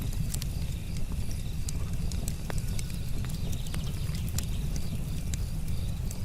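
Wood fire crackling, with frequent sharp pops and snaps from the burning logs over a low steady rumble, and crickets chirping steadily in the background.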